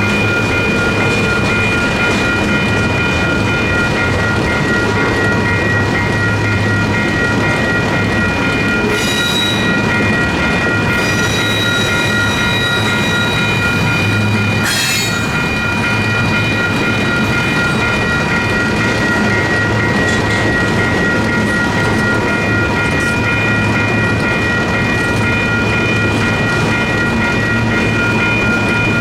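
Double-stack freight train's cars rolling steadily through a grade crossing, wheels clattering over the rails. The crossing signal's electronic bell rings continuously in fast repeated strokes. High-pitched wheel squeals cut in briefly about 9, 11 and 15 seconds in.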